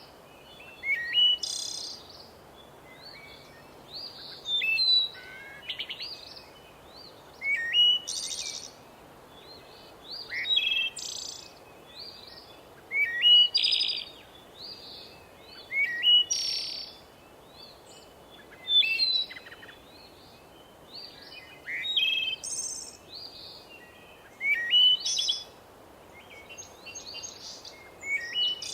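Songbirds singing in a forest, a phrase of song about every two to three seconds over a faint steady background hiss.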